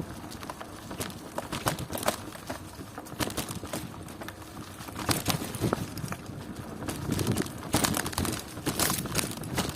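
Irregular clattering and sharp knocks from a bicycle being ridden, coming thicker about five seconds in and again in the last few seconds.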